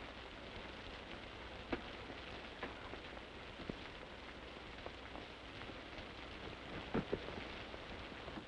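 Steady hiss of rain, with a few short sharp clicks scattered through it.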